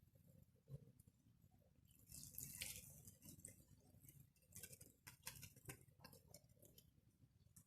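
Near silence with faint scattered clicks and a brief soft rush of noise about two seconds in.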